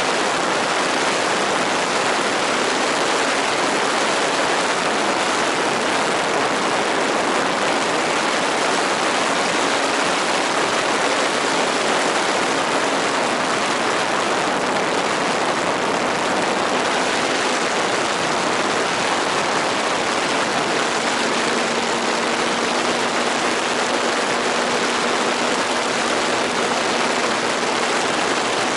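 Steady rushing noise with the faint hum of a radio-controlled model airplane's motor, drifting slightly in pitch.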